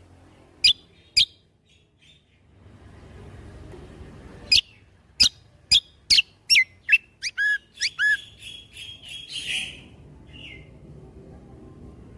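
Kecial kombo (cucak kombo) songbird singing: a few single sharp whistled notes, then from about four and a half seconds a quick run of loud, down-sweeping whistles and looped phrases that ends in a short buzzy trill.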